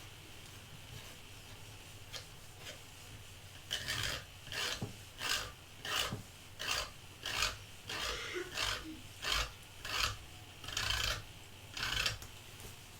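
Repeated rasping strokes of something rubbed or scraped back and forth across a surface, about one and a half strokes a second, starting about four seconds in and stopping shortly before the end.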